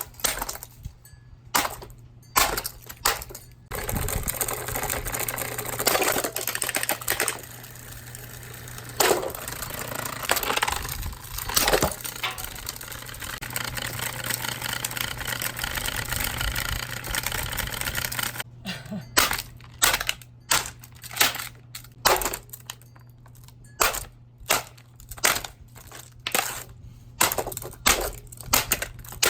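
Vintage Toastmaster metal table fan being destroyed: repeated sharp metallic impacts, roughly one a second, with a long stretch of continuous rough crunching noise in the middle.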